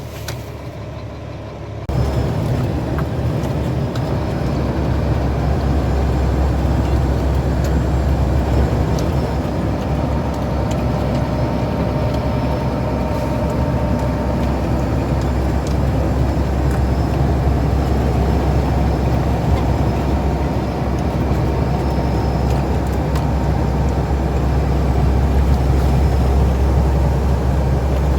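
Heavy truck driving, its diesel engine and road noise making a steady low rumble that jumps louder about two seconds in.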